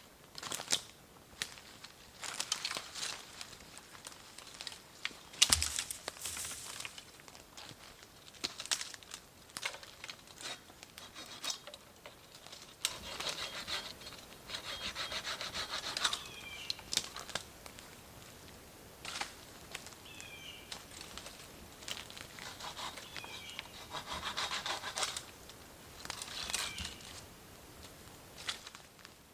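Hand saw cutting wood, in spells of back-and-forth strokes with pauses between.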